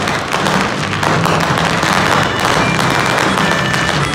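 Fireworks display: many shells bursting overhead at once, a dense, continuous crackling and popping.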